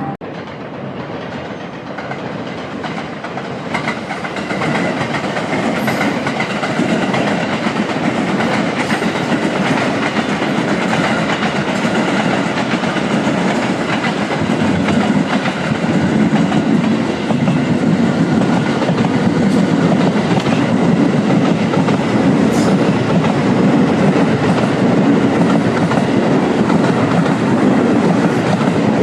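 Train running past at close range: steady wheel-on-rail noise that grows louder about four seconds in and again around sixteen seconds, then holds.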